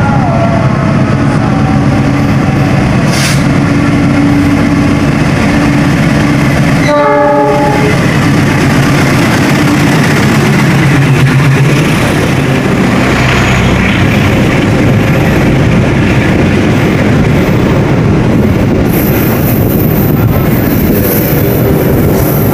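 Argo Lawu express train passing through the station: the diesel locomotive sounds its horn near the start and again briefly about seven seconds in over a steady engine drone. The train's carriages then roll past with continuous wheel-on-rail rumble and clatter.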